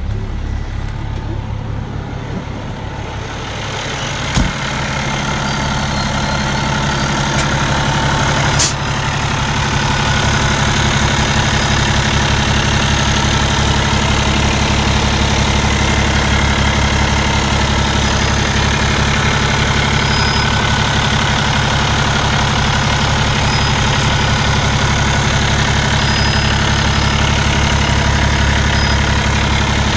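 Cummins ISX six-cylinder diesel in a Peterbilt 386 highway tractor idling steadily, just after a clean start. It grows louder over the first several seconds, then holds even, with two sharp clicks a few seconds apart early on.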